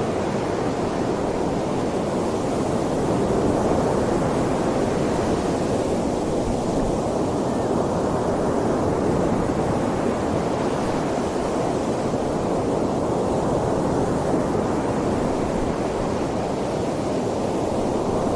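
Strong typhoon wind: a steady, dense rushing noise with a low rumble of wind buffeting the microphone.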